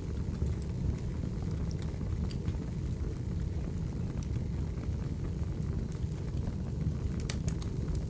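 Recorded wood fire burning: a steady low rumble of flames with scattered sharp crackles and pops, a quick cluster of them near the end.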